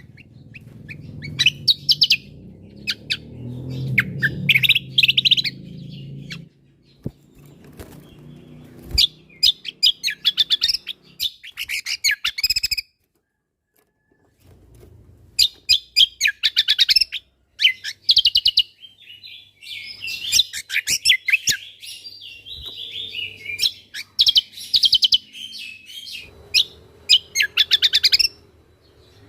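Cucak kombo (kecial kombo) singing in bursts of rapid, high chattering notes and trills, with short gaps and a brief break about halfway; a low background rumble sits under the first few seconds.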